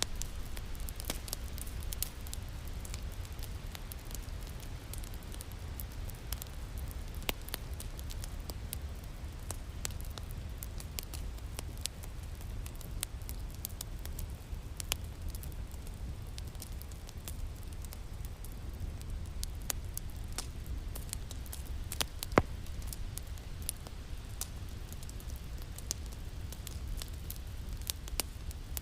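Wood fire crackling in a fireplace: a steady low rumble with scattered small pops and snaps, and one louder pop about two-thirds of the way through.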